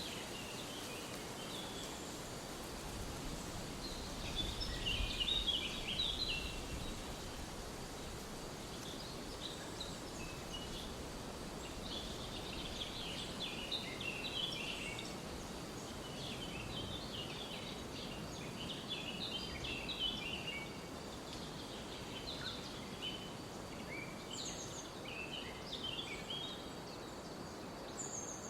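Forest songbirds chirping in short, scattered phrases over a steady background hiss, with a brief low rumble about five seconds in.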